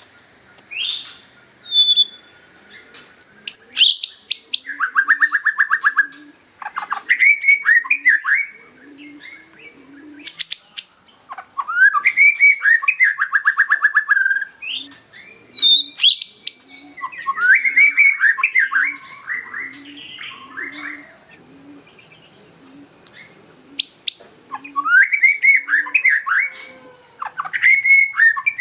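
A young white-rumped shama, just out of its spotted juvenile plumage, practising its song: phrases every few seconds of sweeping whistles and rapid buzzy trills, mostly plain basic notes. A steady thin high tone runs underneath.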